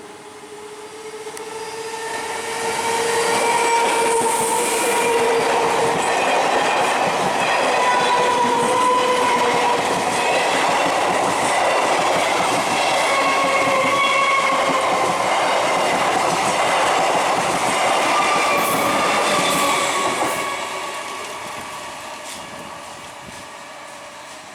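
EMU local train passing a level crossing. The noise of its wheels on the rails builds over the first few seconds, holds steady and loud with a faint whine in it, then fades away over the last few seconds.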